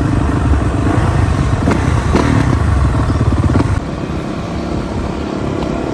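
Dirt bike engines running while riding, with a heavy low rumble; the noise drops suddenly about four seconds in.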